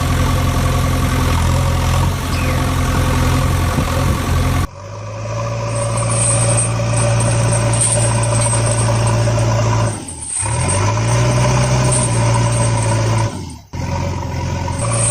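Vehicle engine idling in a steady low drone, cut in as a sound effect. About a third of the way in it switches abruptly to a different engine drone, which drops out briefly twice near the end.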